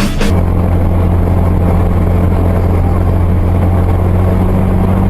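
Steady low drone of a car driving, engine and road noise as picked up by a dash cam.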